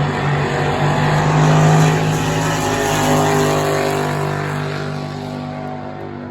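Racing drag boat engine running loud with a steady deep note, then fading away over the last few seconds.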